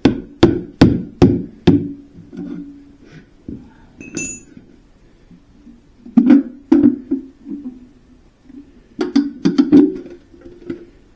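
Hammer blows on a chisel driven in to break loose the oil pan of a seized Ford 2.9 V6, sharp ringing metal strikes in bursts, with a quick run of about six blows near the end and a single high metallic clink around four seconds in.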